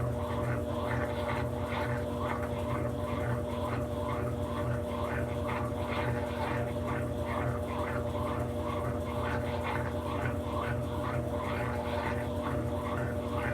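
Brastemp BWK17 17 kg washing machine running mid-cycle: a steady motor hum under a quick, regular swishing rhythm of the wash being churned.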